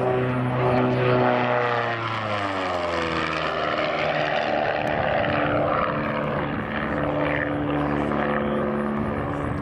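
Rutan Defiant push-pull twin-engine canard homebuilt making a fly-by, its propeller drone loudest about a second in and then dropping in pitch over the next two seconds as it passes, settling into a steadier lower drone as it moves away.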